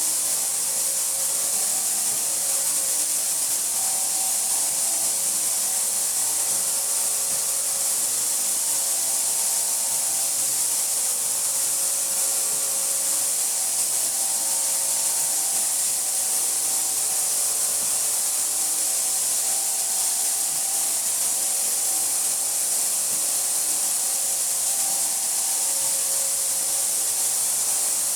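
Ultra 3800 FLT ultrasonic cleaning tank running its cleaning cycle with parts submerged: a steady high hiss of the water being driven by ultrasonic power and agitation, with faint wavering tones underneath.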